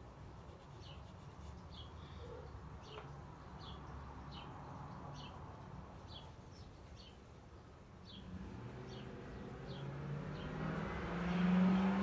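A small bird chirping over and over, one short high chirp about every three-quarters of a second. From about two-thirds of the way in, a low engine hum swells up and is loudest near the end, like a motor vehicle passing.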